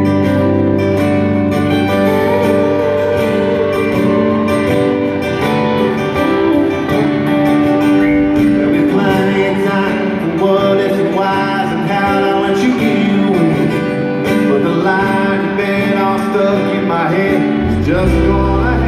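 Live country band playing through an arena sound system: amplified guitars with a sung melody over them. A heavier bass comes in near the end.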